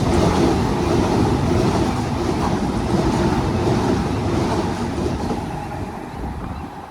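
Sydney Trains Mariyung D-set electric train running through the station without stopping: a steady rush of wheel and rail noise that is loudest for the first few seconds, then fades away near the end as it moves off.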